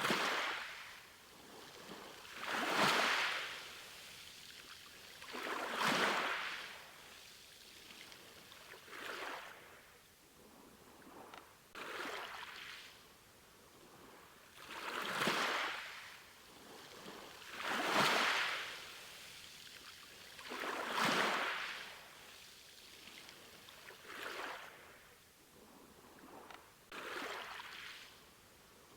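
Small sea waves washing in, one swelling hiss and fade about every three seconds.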